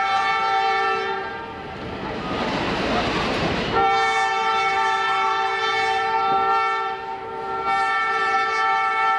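Locomotive air horn sounding a chord of several steady notes in repeated blasts: one blast ends about a second in, then after a few seconds of the train's rushing noise a long blast starts, breaks briefly near 7 s, and sounds again.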